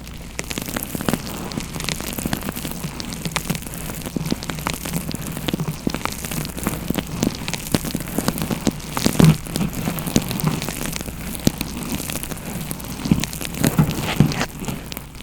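Dense, irregular crackling and tapping very close to the microphone, continuous like pattering rain, with a few louder soft thumps about nine seconds in and near the end.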